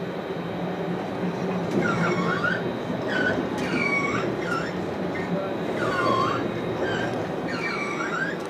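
Citadis 403 tram running with a steady rumble. From about two seconds in, its wheels squeal repeatedly, each squeal dipping and rising in pitch.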